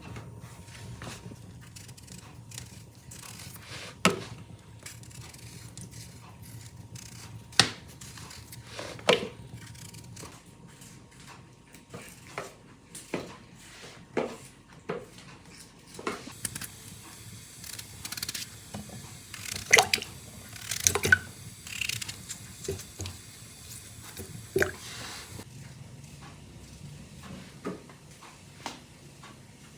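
Household work with water: scattered knocks and clinks, with a stretch of dripping and splashing water from about a quarter past halfway to near the end.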